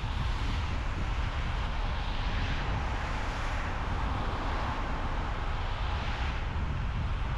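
Steady road noise from a car being driven: a constant low tyre rumble under a hiss that swells a little a couple of times.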